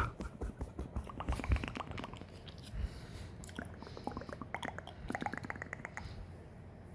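Close-miked ASMR mouth sounds: quick wet clicks and smacks of the lips and tongue, coming in rapid runs, with a sharp click at the start and another loud one about a second and a half in.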